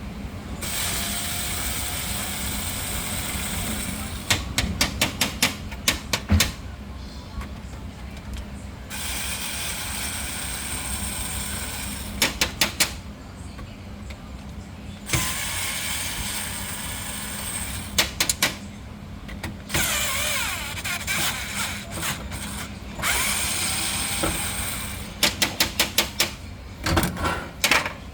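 Work on a showcase refrigerator's condenser fan motor: stretches of steady running noise with a low hum, broken several times by quick runs of sharp clicks.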